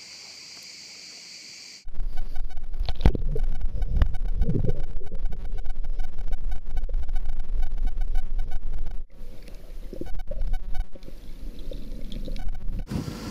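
Wind buffeting the microphone on a sailboat under way: a loud, steady rumble with scattered knocks, starting suddenly about two seconds in and easing somewhat past the middle. It is preceded by a faint steady hiss with a thin high whine.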